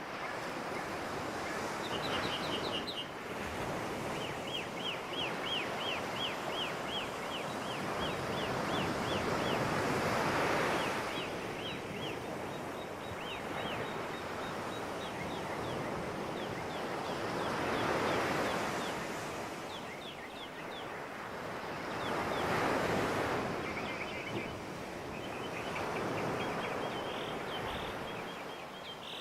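Surf-like wash rising and falling in slow swells, with runs of short high chirps repeated several times a second over it.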